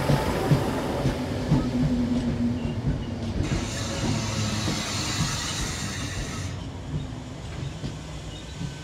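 ScotRail electric multiple unit running into the platform and slowing to a stop, its wheels knocking over the rail joints in the first seconds. About three and a half seconds in comes a steady hiss that lasts about three seconds, and the sound dies down as the train comes to rest.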